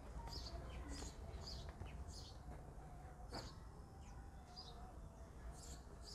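Birds chirping: many short, high chirps coming every half second or so over a low steady background rumble, with one sharp click about three and a half seconds in.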